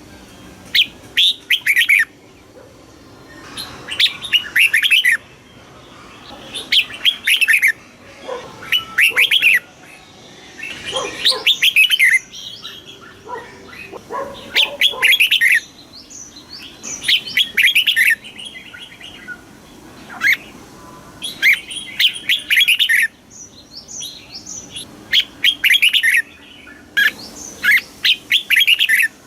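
Red-whiskered bulbul singing: short, bright warbled phrases about a second long, repeated every two to three seconds.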